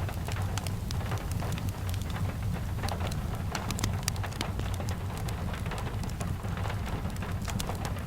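Steady rain with a continuous low rumble, and many scattered sharp crackles and ticks from a wood fire and raindrops.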